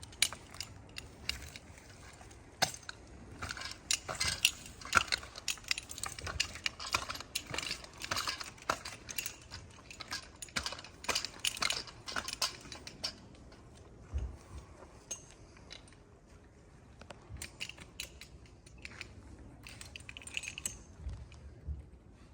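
Metal tree-climbing hardware jangling and clicking, with light scrapes and knocks, as a climber moves on the tree: a dense run of clinks for about the first half, then fewer.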